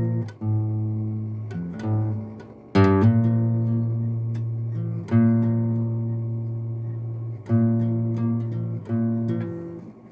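Acoustic guitar music: slow chords strummed a few seconds apart, each left to ring out and fade.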